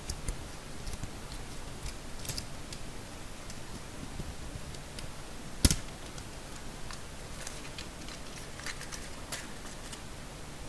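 Handling noises of earphone packaging and a small paper instruction manual: scattered light clicks and rustles, with one sharp click about halfway through.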